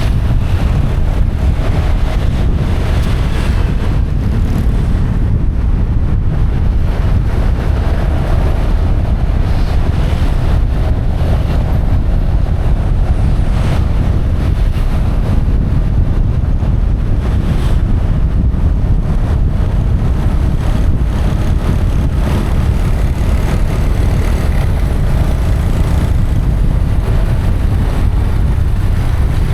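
Wind buffeting the microphone of a motorbike in motion, a steady loud rush heaviest in the lows, with the motorbike's engine running underneath.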